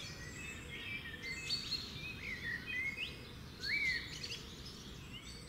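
Birdsong: several birds giving short chirps and whistled notes, some rising and some falling, over a steady low background rumble, growing fainter toward the end.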